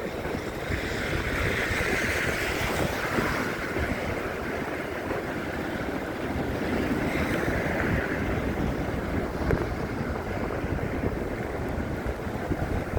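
Wind buffeting a phone's microphone in a snowstorm: a steady, rumbling rush of noise with no distinct events.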